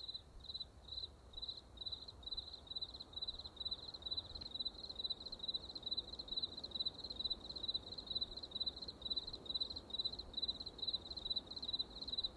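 Insect chirping, likely a cricket, in short pulses at one high pitch that come faster over time, from about two a second to about four a second, over a faint low rumble.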